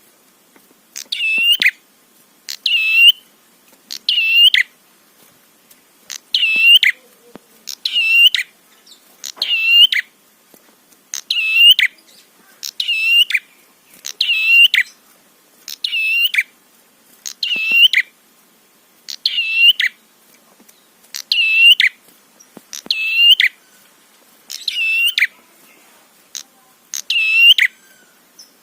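Prenjak kepala merah (red-headed prenjak songbird) calling, a recording used as a lure. The same short, sharp call, with its strongest note around 3 kHz, repeats evenly about every one and a half seconds, some sixteen times over.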